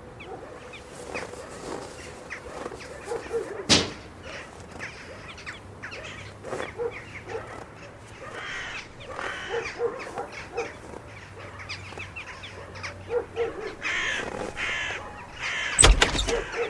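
Crows cawing repeatedly, with a sharp knock about four seconds in and a louder thump near the end.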